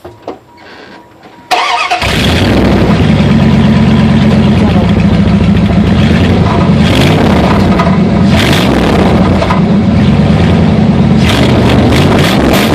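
1995 Dodge Ram's 5.9 V8 cranks and fires about a second and a half in, then runs at a loud, steady idle through an open exhaust with the muffler removed.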